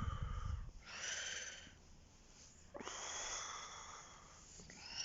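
A person breathing close to the microphone: about four breaths of a second or so each, with pauses between them.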